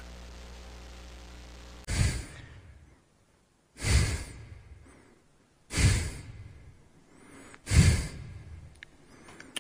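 Four loud, breathy huffs, evenly spaced about two seconds apart, each starting sharply and trailing off.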